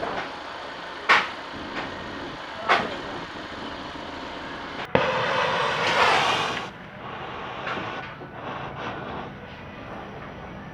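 Sharp knocks about a second apart, then, about five seconds in, a sudden hiss that lasts under two seconds.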